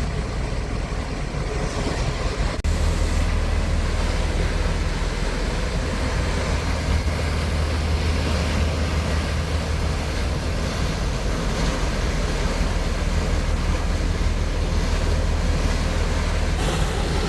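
Motorboat engine drone heard aboard while cruising, with steady wind and water noise. A click about two and a half seconds in, after which the low engine drone is louder.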